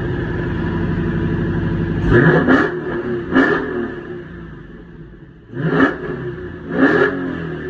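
2016 Dodge Challenger Scat Pack's 6.4-litre HEMI V8 idling through its exhaust just after a cold start, then blipped four times: quick revs that rise and fall back, with a lower idle between them.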